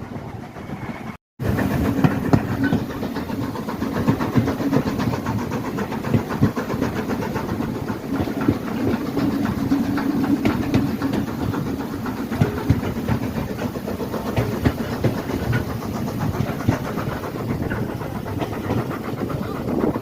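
Train on the move: a steady engine drone with wheels clicking and knocking over the rails. The sound cuts out briefly about a second in.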